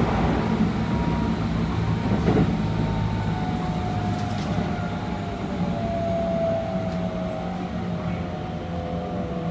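Keikyu 600 series electric train running, heard from inside the car: the whine of its Mitsubishi GTO-VVVF traction inverter and motors falls slowly in pitch as the train slows, over a steady rumble of wheels on track.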